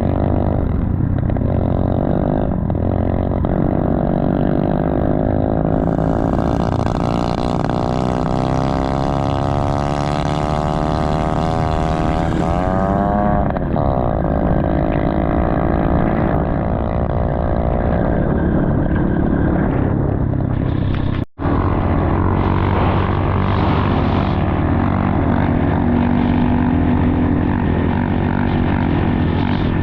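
Motorcycle engine running, its pitch rising and falling with the throttle. The sound drops out for an instant about 21 seconds in, then carries on.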